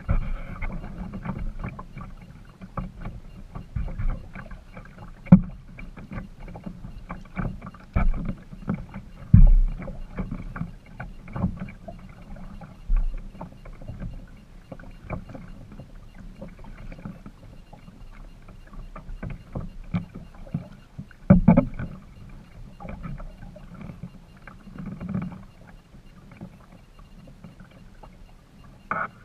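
Kayak being paddled: water swishing and dripping off the paddle, with many irregular knocks and a few louder thumps against the boat.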